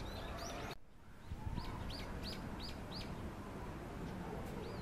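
Small songbird chirping: a quick run of about five evenly spaced, sharply falling notes about a second and a half in, with more scattered chirps near the start and end, over a steady low background rumble.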